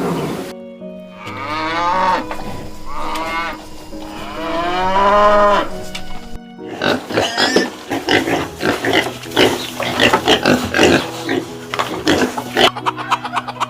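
Farm animals calling in two quick clips: first three long drawn-out calls that bend in pitch, then a few seconds of rapid, irregular short calls, over faint background music.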